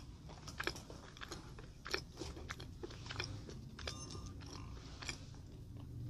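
Close-miked chewing of sweets with the mouth closed, with irregular sharp mouth clicks.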